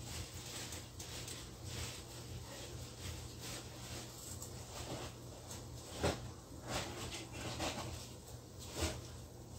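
A pan of spaghetti jollof frying on an electric stove, giving irregular crackles and pops over a steady low hum, with the sharpest pop about six seconds in and another near the end.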